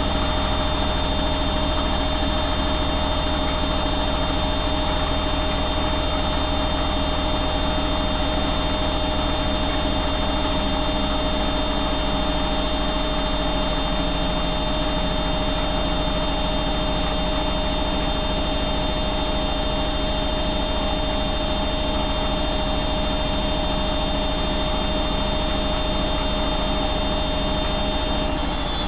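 Washing machine running a spin, its motor and drum giving a steady whine over a noisy hum. Right at the end the whine starts to drop.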